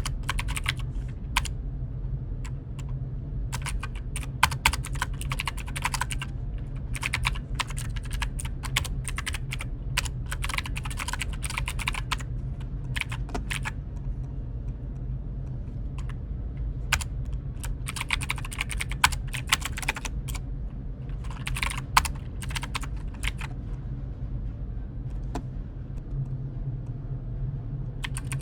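Computer keyboard typing in bursts of rapid key clicks, broken by pauses of a few seconds, over a steady low hum.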